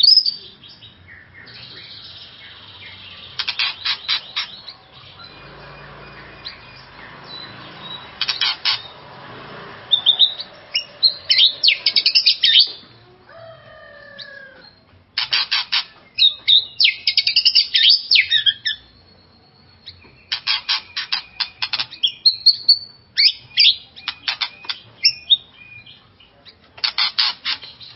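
White-rumped shama (murai batu) singing in agitated outbursts: bursts of rapid rattling notes alternating with sweeping whistled phrases, with short pauses between, the kind of heated song used to provoke another shama into singing.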